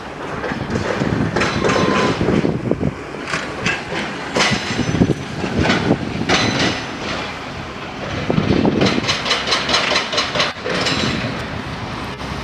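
Heavy machinery running, with frequent irregular metallic clanks and knocks over a rumbling noise, and a quick run of clanks near the end.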